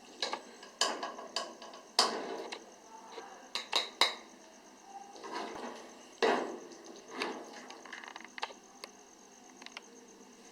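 A serving spoon knocking and scraping against the karahi as the chicken karahi is dished out: a string of separate clinks and knocks, about one every second or so, fading toward the end.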